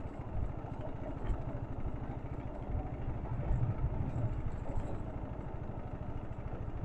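Motorcycle engine running steadily while riding, a low even rumble.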